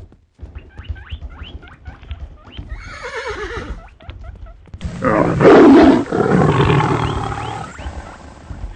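Animal stampede sound effect: a low, steady drumming like running hooves under scattered short animal calls. About five seconds in comes a loud animal roar that tails off over the next few seconds.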